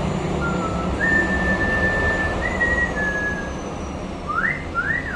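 A pet myna whistles. It gives a short note, then a long level whistle that steps up briefly and back down, then two quick rising-and-falling whistles near the end.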